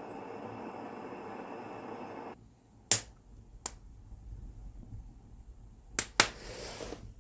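A steady rushing noise that cuts off abruptly, then a quiet room with a few sharp snaps or clicks.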